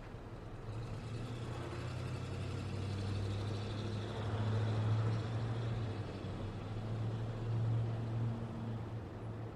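Road traffic: a passing motor vehicle's low engine hum and tyre noise swell up, peak twice, and ease off.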